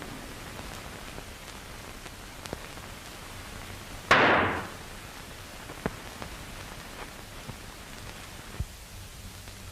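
Steady hiss and scattered crackle of an old optical film soundtrack, broken about four seconds in by one sudden loud burst of noise that fades away within about half a second.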